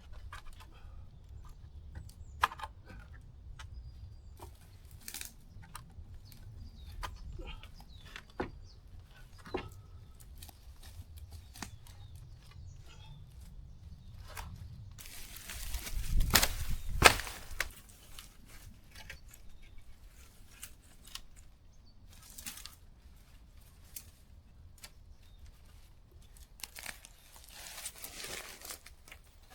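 Dry twigs and branches cracking and snapping with dry leaves rustling in forest undergrowth. There are scattered single cracks throughout, and a louder rustling stretch about halfway through with two sharp snaps.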